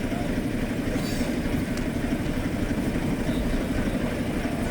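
An engine idling steadily nearby, a fast even throb over a low rumble.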